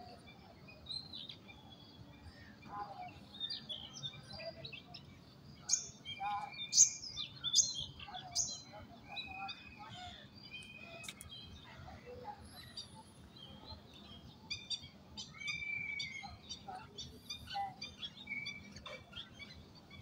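Birds chirping and calling: many short high chirps with a few longer whistled notes, the loudest calls about a third of the way through, over faint low background noise.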